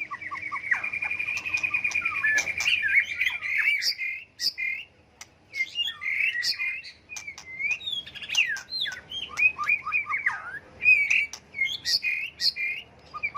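White-rumped shama singing a varied song of whistles, rapid trills and sliding notes, changing phrase after phrase, with sharp clicking notes mixed in and a short pause about five seconds in.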